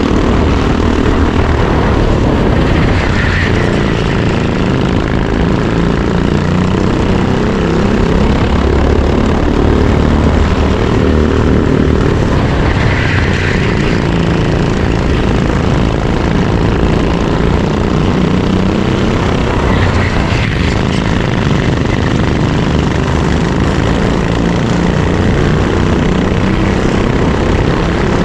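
Racing kart engine heard onboard at speed, its pitch rising and falling repeatedly as the driver accelerates and lifts through the corners.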